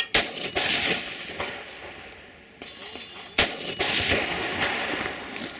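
Gunshots from an AR-15 rifle: two sharp shots close together at the start, then another about three and a half seconds in, each followed by ringing echo.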